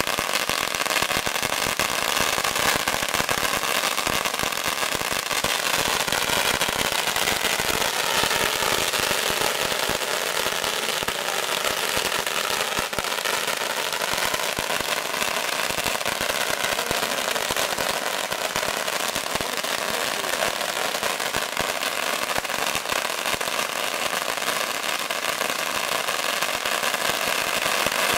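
A giant roll of firecrackers going off, a dense, unbroken rattle of rapid pops that holds steady in loudness throughout.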